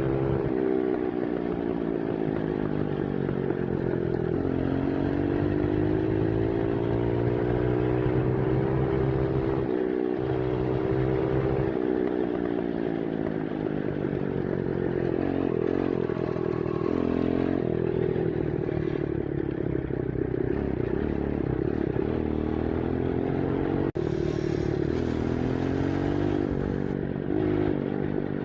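Dirt bike engine being ridden, revving up and easing off over and over so its pitch keeps rising and falling.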